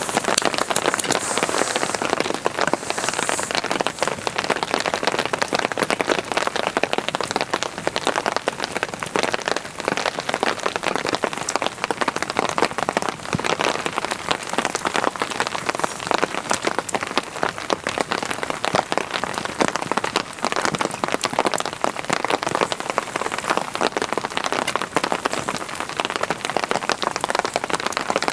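Heavy rain falling steadily, a dense, unbroken mass of drop impacts.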